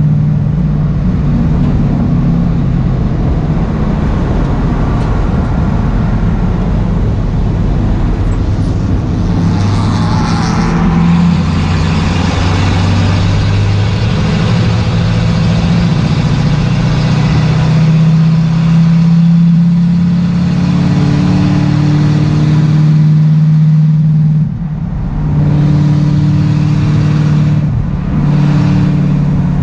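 Ford race car engine running hard at track speed, heard from inside the stripped cabin over road and wind noise. The engine note dips briefly about 25 seconds in and again near the end.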